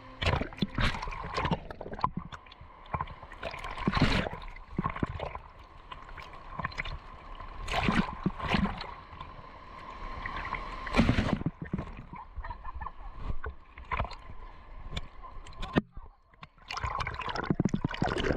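Seawater splashing and sloshing in irregular bursts every second or two, as a person bathes in the sea.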